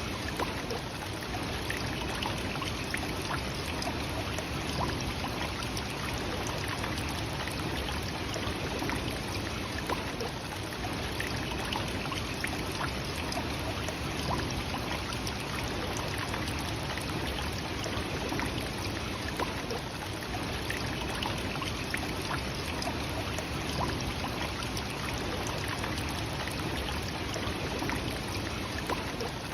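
Nachi Falls, a tall single-drop waterfall, pouring without pause: a steady, even noise of falling water.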